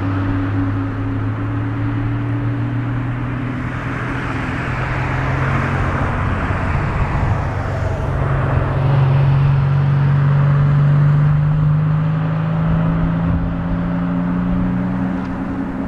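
A Boeing 777-200 on the apron during pushback, its engines running as a steady low drone whose pitch rises slightly about halfway through. Strong wind is blowing on the microphone.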